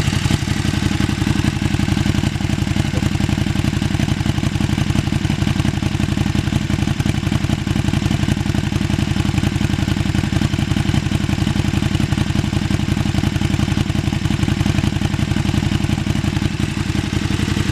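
2017 KTM 1290 Super Duke GT's V-twin idling steadily through a de-catted exhaust: a Bodis mid pipe in place of the catalytic converter, ahead of a Bos muffler. It reads about 88 to 92 decibels at idle, about 2 decibels above stock.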